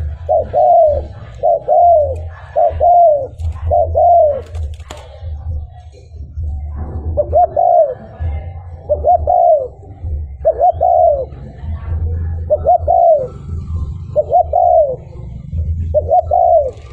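Spotted dove cooing, a quick run of about five short coos that each rise and fall in pitch, then a short pause and about six more coos at a slower, even pace.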